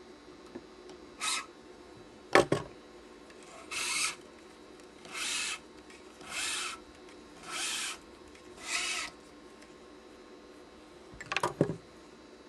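A nylon badminton cross string (Yonex Nanogy 99) being pulled through the woven main strings, each pull a short rasping swish of string rubbing on string. Five pulls come at an even pace of about one a second and a bit, with an earlier, shorter one. Sharp knocks sound near the start and a quick rattle of clicks near the end.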